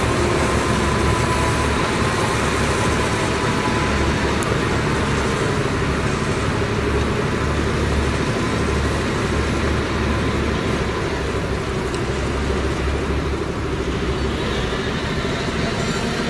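Heavy diesel earthmoving machinery running steadily under load: a continuous low engine drone with faint steady whining tones above it.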